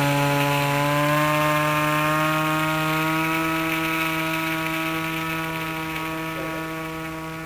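Glow engine of a Lanier Sea Bird radio-control flying boat running at high throttle while it taxis on the water, giving one steady pitched note. The pitch rises slightly in the first couple of seconds, then the sound slowly fades as the model moves away.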